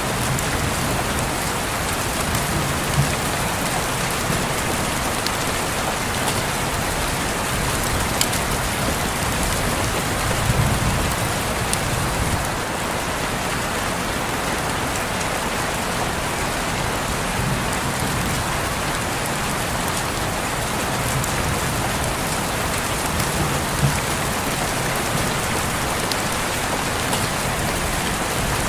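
Steady heavy rain hissing on a window, with scattered sharp drop taps and a soft low rumble that swells now and then.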